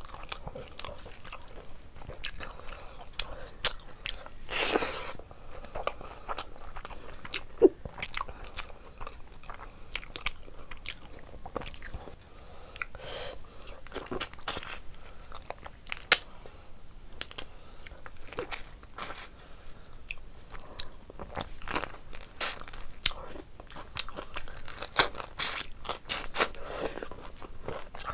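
Close-miked eating of prawn curry and rice by hand: wet chewing and biting, with many sharp mouth clicks and smacks.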